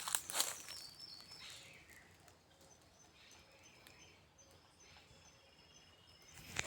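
Faint bird calls: a short high note repeated about twice a second, with a fainter steady high tone beneath. A few clicks and rustles come in the first second or so.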